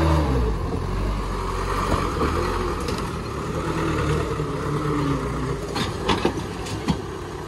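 Toyota Dyna truck engine running under load, its revs falling sharply at the start and then holding low and fairly steady. A few sharp knocks come near the end.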